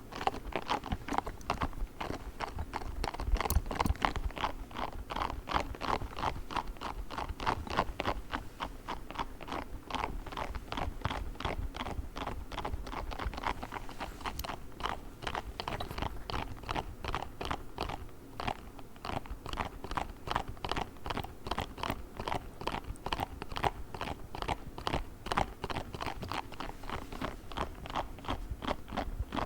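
Pink spiky ball handled quickly, giving a fast, even run of short sharp crunchy sounds, about four a second.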